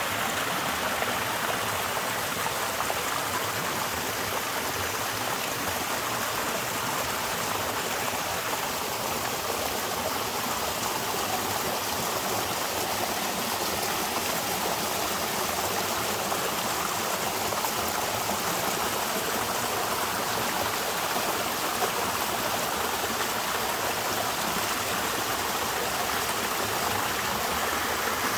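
Small waterfall with a light flow, water falling and splashing in a steady, even rush.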